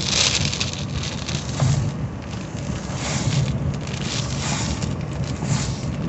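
Rain beating on a moving car and tyres hissing on the wet road in a thunderstorm, heard from inside the car. A low pulse comes back a little over once a second.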